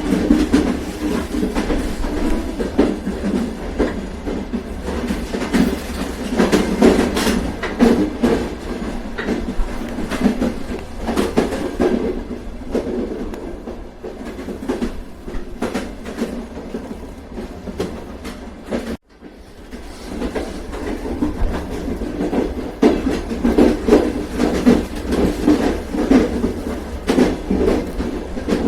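A moving train: a steady rumble with the wheels clicking over rail joints. The sound cuts out suddenly for a moment about two-thirds of the way through, then builds back up.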